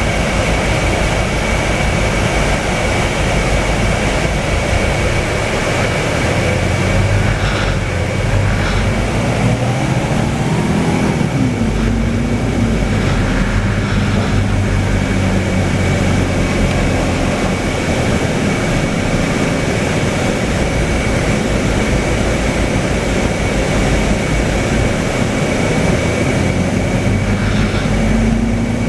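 Scania K320UA city bus's diesel engine heard from inside the passenger cabin, running under way, its pitch climbing as the bus accelerates about halfway through and again near the end. A steady high whine runs under it, with a few brief clicks and rattles.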